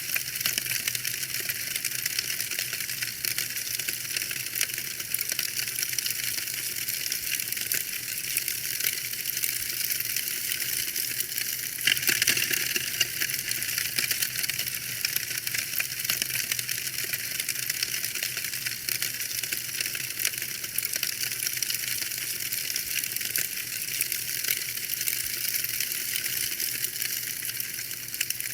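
Wood fire crackling: a dense, steady patter of small pops and snaps over a soft hiss, with a louder burst of crackling about twelve seconds in.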